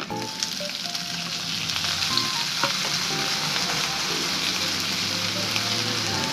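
Raw shell-on shrimp sizzling in hot oil with onion and garlic in a wok. The hiss swells sharply as they go into the pan, then holds steady while a plastic spatula stirs them, with a few light clicks.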